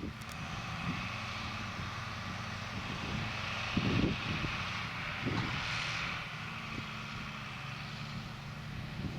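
Tractor engine running steadily, powering hay machinery that adds a steady mechanical whirr. A few low thuds of wind buffeting the microphone come through, the loudest about four seconds in.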